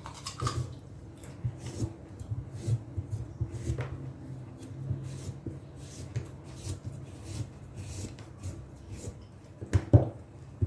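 Irregular knocks and clicks of kitchen food preparation, a knife and utensils working on a cutting board and dishes, with two louder knocks near the end.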